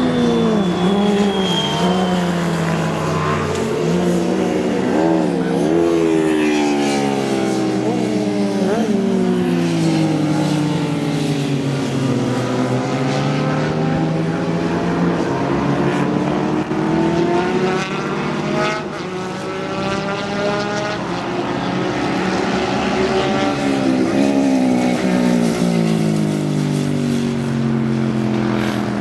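Several vintage racing motorcycle engines running hard together, their pitches rising and falling and overlapping as they rev through gear changes, with sharp dips and rises about five and eight seconds in.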